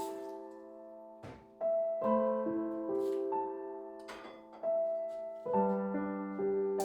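Background music: soft, slow piano chords, with faint clicks here and there.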